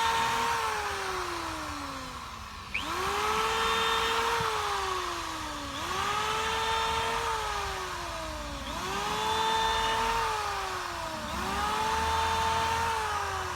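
Handheld electric power tool motor being run in repeated bursts: its whine spins up quickly, holds for a second or two, then sinks slowly in pitch as it winds down or bogs, four times in a row.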